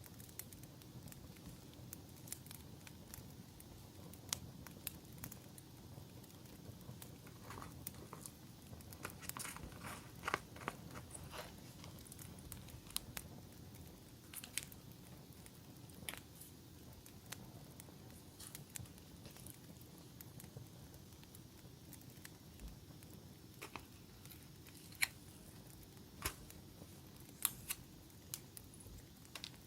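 Campfire crackling: a low steady rumble with scattered, irregular sharp pops and snaps, busier about a third of the way in and again near the end.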